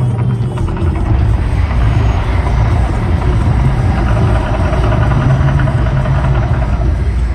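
Mirage volcano show erupting: a loud, deep continuous rumble with a rushing, hissing noise over it, the rush growing stronger toward the end.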